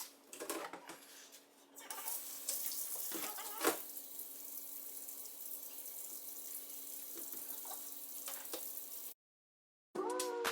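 Water running steadily from a tap into a sink, with a few knocks and clatters of things handled under it in the first few seconds. The running water stops abruptly near the end.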